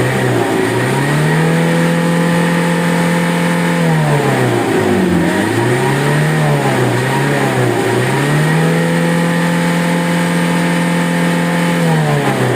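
Vehicle engine revved hard and held high for a couple of seconds, let down with a couple of short blips, then revved and held high again before dropping near the end. The revving blows soot out of the exhaust while the muffler is being cleaned for a smoke-emission test.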